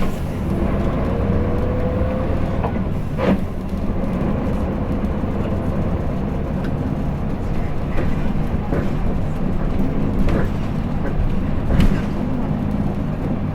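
Interior running sound of a Hino Blue Ribbon City diesel city bus under way: a steady low engine and drivetrain drone heard from inside the cabin, with a faint rising whine about two to three seconds in. Short sharp knocks from the body come several times, the loudest about three and twelve seconds in.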